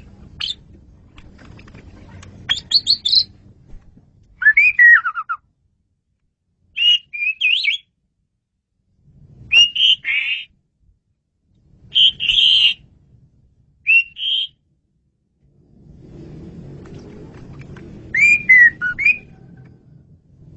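Asian pied starling singing: short bursts of whistled, chattering phrases, one every second or two. A faint low rumble sits behind it and grows louder in the last few seconds.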